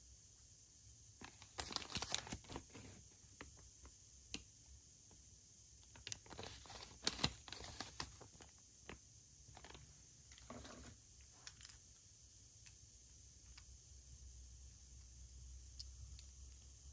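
Packaging being handled and opened by hand: bursts of crinkling and sharp clicks, about a second or two in and again around six to eight seconds in, with a few scattered clicks between.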